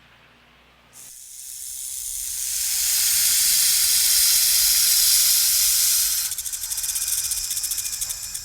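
A snake hissing: the hiss starts about a second in, builds to a loud, steady hiss, then from about six seconds in breaks into a fast rattling buzz.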